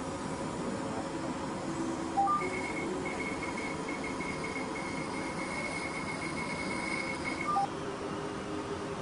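Fraxel Repair CO2 laser beeping as it fires: a rapid run of high beeps, several a second, for about five seconds, with a short two-note chirp just before and just after the run. A steady hiss underneath.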